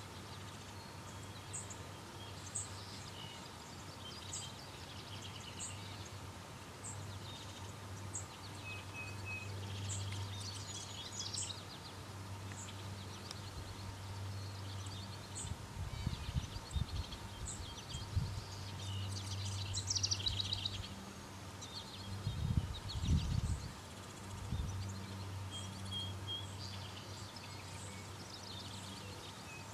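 Songbirds chirping and trilling, with short high notes repeating about once a second, over a steady low hum. A few bursts of low rumble come about halfway and again about two-thirds through.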